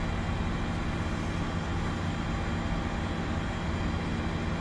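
Steady hum and whine of a Boeing 747-200 heard from inside the cockpit during the engine-start sequence, with several steady tones over an even rumble and no change in level.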